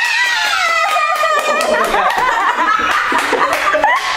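High-pitched laughter, continuous, starting high and sliding down in pitch over the first couple of seconds before wavering on.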